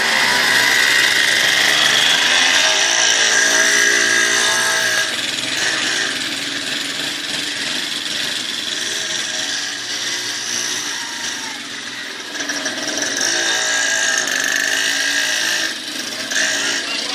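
Mini dirt bike's small engine running hard with a high buzzing note, its pitch rising and falling as the throttle is worked and easing off a few times.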